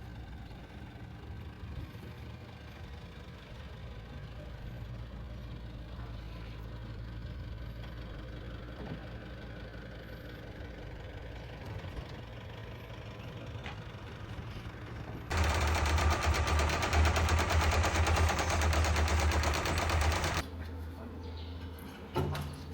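Caterpillar D4C bulldozer's diesel engine running low and steady, then much louder with a dense rapid clatter for about five seconds from about fifteen seconds in, before dropping back.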